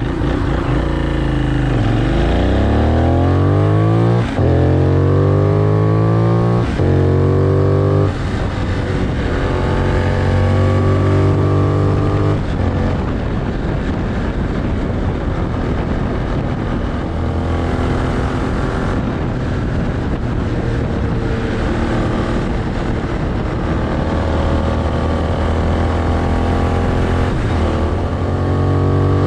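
Benelli 752S parallel-twin engine accelerating through the gears: the pitch climbs in each gear, with short breaks at the upshifts about four, six and a half and eight seconds in. It then runs at a steadier cruising speed, with smaller rises in revs and wind noise.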